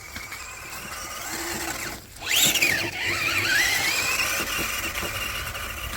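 RC crawler truck's electric motor and drivetrain whining under throttle. The whine climbs slowly in pitch, stops briefly about two seconds in, then comes back louder, its pitch dipping and climbing again before it holds steady.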